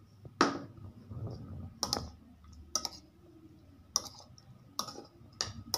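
A metal spoon clicking and clinking against the bowl while pork liver is stirred in a soy sauce marinade: about seven sharp, irregularly spaced clicks.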